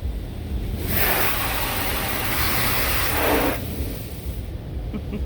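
Automatic car wash spray jets sweeping over the car, heard from inside the cabin as a loud hiss of water that starts about a second in and dies away after about three seconds. A steady low rumble of the wash machinery runs underneath.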